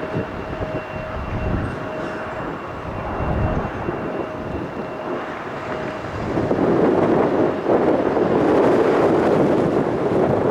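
Jet noise from a UPS Airbus A300-600F's twin engines as it lands, a steady rush with a faint whine, growing louder from about six seconds in.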